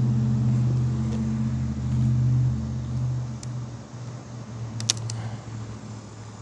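Honeybees buzzing around the opened hive as a steady low hum that fades after about three seconds, with one sharp click near the end.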